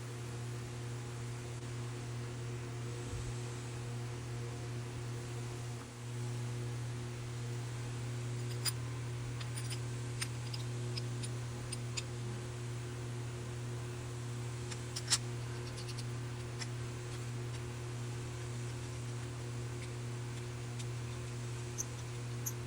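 Steady low electrical or fan-like hum, with a scattering of short light clicks and taps, most of them in the middle stretch and the sharpest about fifteen seconds in.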